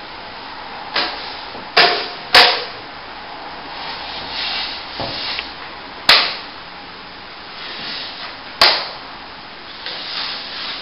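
Plasterer's trowel working top-coat compound: soft scraping strokes broken by five sharp metallic clacks of the trowel.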